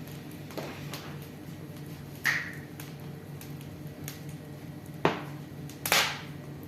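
Wood fire crackling in a fireplace: sharp pops about two seconds in and twice near the end, with smaller ticks between, over a steady low hum.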